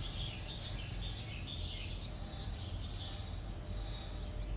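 Birds chirping intermittently over a steady low background hum.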